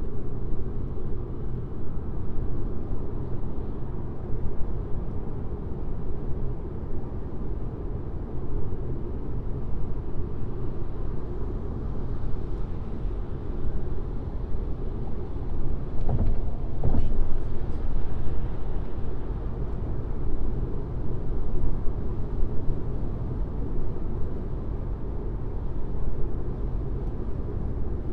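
Car driving on a highway: a steady low hum of tyres and engine. Two faint short thumps come about sixteen to seventeen seconds in.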